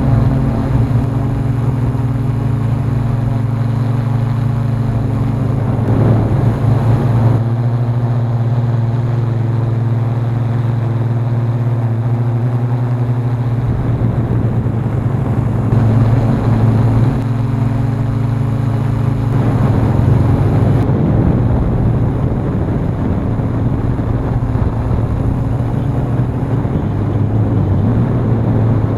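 Hexacopter's electric motors and propellers running with a steady hum, with gusts of strong wind buffeting the microphone. The hum shifts abruptly a few times.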